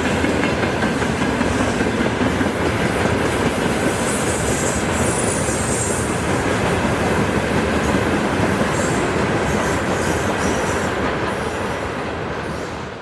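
A freight train rolling past, its wheels making a steady, loud clatter on the rails with intermittent high-pitched wheel squeal. It eases off slightly near the end.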